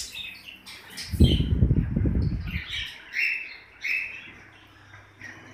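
Caged love birds chirping, short sharp calls repeated every half second or so. About a second in, a loud low rustling rumble lasts for nearly two seconds.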